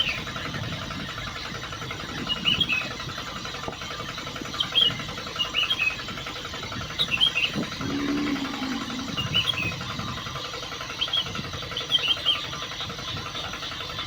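A small motor running steadily with an even hum, while short high chirps sound in little groups every second or two.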